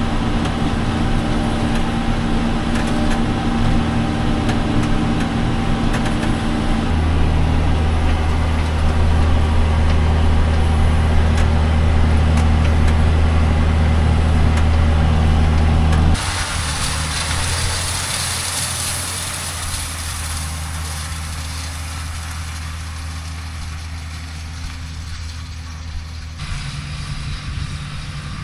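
Farm tractor engine running steadily under load. Its low hum gets heavier about seven seconds in, then changes abruptly about sixteen seconds in to a quieter hum with more hiss.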